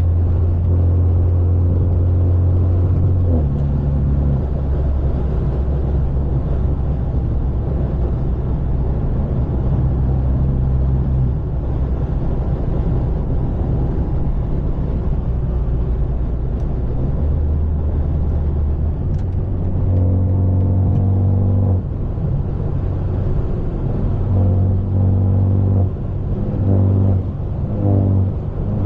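BMW 530 with a straight-piped, catless exhaust cruising, its engine drone loud and steady. The pitch drops about three seconds in as it shifts up, rises again later, and near the end comes in short pulses as the driver gets on and off the throttle.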